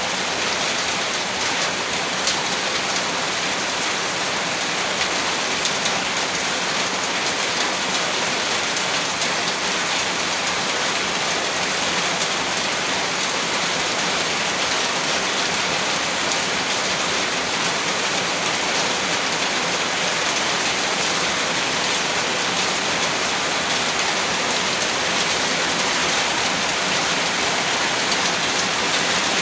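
Heavy rain falling steadily on a surface: a dense, even hiss of many drops that neither builds nor fades.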